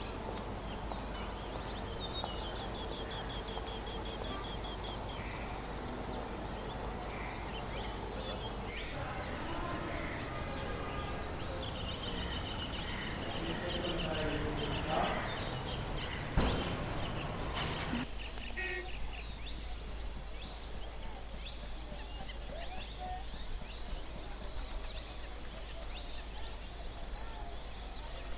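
Insects chirping in a high, even pulse, about three pulses a second, over outdoor ambience. The background shifts abruptly twice, and there is a single sharp click about two-thirds of the way through.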